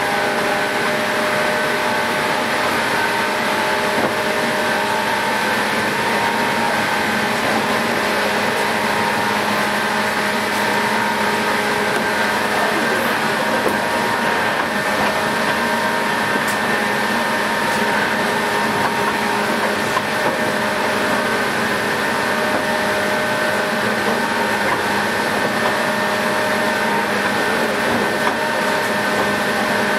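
Inside a JNR 117-series electric train running at a steady speed: a constant hum and whine from the running gear over rolling noise, with no change in pitch.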